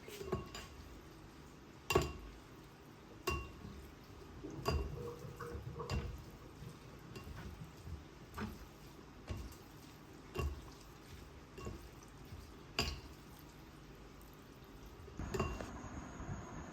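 Cutlery clinking against dishes, about a dozen separate light clinks with a short ring, irregularly spaced.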